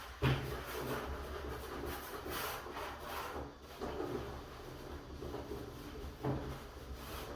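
Repeated rubbing strokes against a wooden door surface, coming irregularly about once or twice a second.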